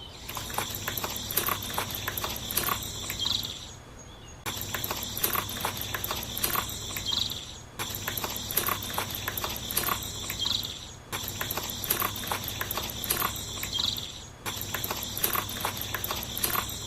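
Crickets chirping with quick clicks scattered through, a short stretch of sound repeated as a loop about every three seconds.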